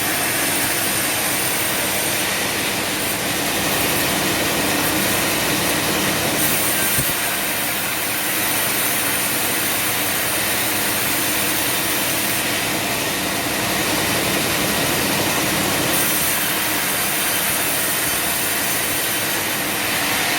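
Sawmill machinery running steadily, a dense and even mechanical noise that holds the same level throughout.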